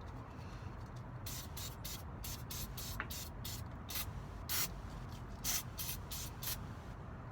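A dozen or so short, sharp hisses from an aerosol spray can in quick succession, spraying out the inside of a mortise lock case to clean out old grease and grit.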